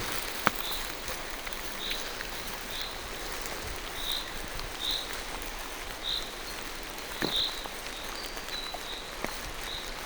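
Steady rain falling through forest trees, with a bird repeating a short high chirp about once a second and a few sharp drips ticking close by.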